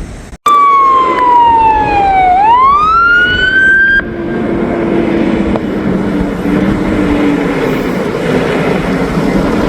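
Emergency vehicle siren wailing, its pitch sliding down and then back up. It starts abruptly and cuts off suddenly after about three and a half seconds. A steady rumble with a low wavering hum follows.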